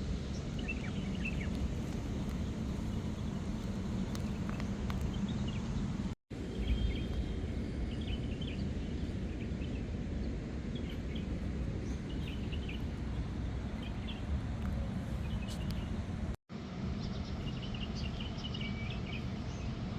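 Outdoor background noise: a steady low rumble with faint, scattered high chirps. The sound drops out to silence for an instant twice, about six seconds in and again near sixteen seconds, where the clips are cut together.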